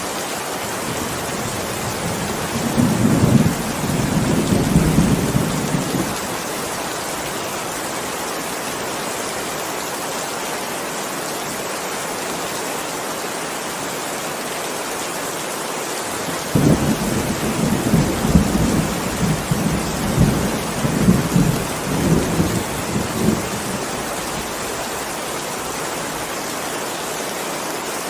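Heavy rain falling steadily, with two rolls of thunder. The first rumbles a few seconds in; a longer one rolls on in several swells from a little past halfway.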